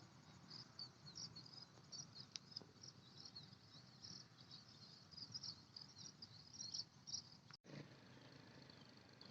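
Faint outdoor ambience of crickets chirping in quick, irregular high trills over a low background hum. The sound breaks off for an instant near the end, and the chirping is fainter after that.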